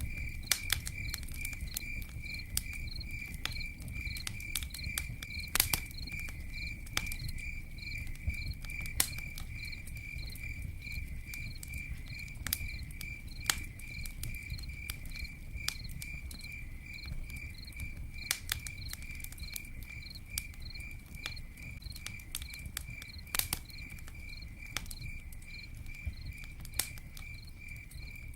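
A cricket chirping steadily, about three chirps a second, over a crackling campfire that gives sharp pops and snaps at irregular moments, with a low steady rumble beneath.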